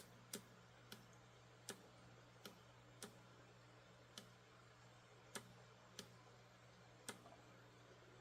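Faint, sharp clicks at uneven intervals, about one or two a second, typical of the switches and buttons on a hobby RC transmitter being pressed to cycle an RC dump truck's lights. A low steady electrical hum sits underneath.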